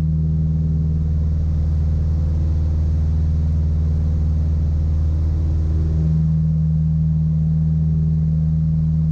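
The twin piston engines and propellers of a Piper Apache droning steadily in a climb, a low even hum with no pauses; about six seconds in, one of the low tones in the drone gets stronger.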